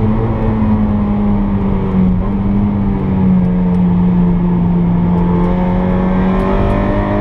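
Honda K20 inline-four engine of an Integra DC2 on track, heard from inside the cabin, running hard at high revs. The note eases down a little through the middle and climbs again near the end.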